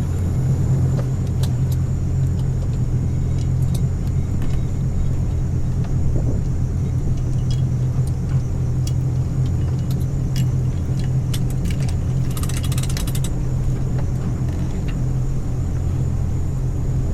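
A running motor vehicle: a steady low rumble of engine and road noise. Small clicks are scattered through it, and a brief metallic jingle like keys comes about twelve seconds in.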